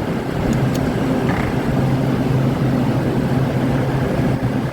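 Midea 25-ton packaged air-conditioning unit running: a steady, loud compressor hum with fan and airflow noise. One of its compressors is drawing high current, which the technician puts down to a restricted capillary tube.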